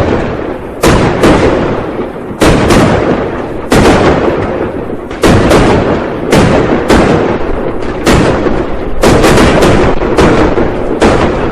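Firecrackers and fireworks going off for New Year: a dense string of loud bangs, one or two a second, each echoing away over a steady crackle.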